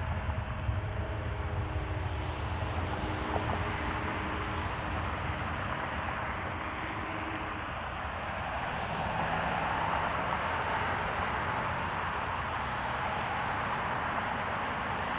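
Jet airliner engines running at an airport, swelling for a few seconds in the middle, over a low, wavering rumble of gusty wind on the microphone.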